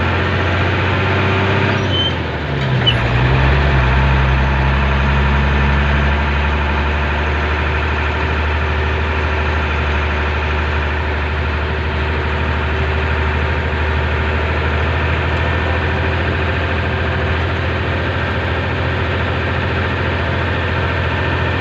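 Motorcycle engine running steadily. Its pitch dips and shifts about two to three seconds in, then holds even.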